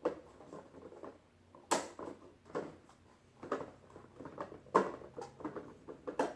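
Plastic toy train track pieces being handled and fitted together: light clattering and rustling, with three sharp plastic clicks or knocks, about 1.7 s, 4.8 s and just over 6 s in.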